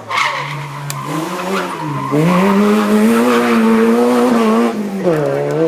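Hillclimb race car engine under hard driving. The revs dip and climb, then are held high and steady from about two seconds in, before dropping and picking up again near the end.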